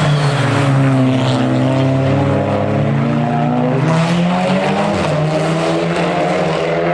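Hill-climb race car engine running hard; its note falls over the first couple of seconds, then rises steadily again as the engine picks up revs.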